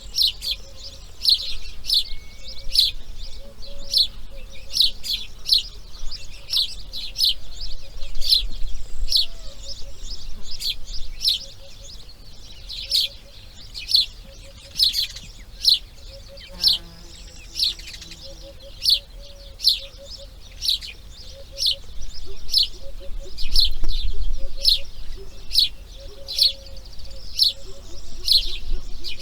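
A bird chirping in a steady series of short high chirps, about one or two a second, with a lower, briefer call about midway.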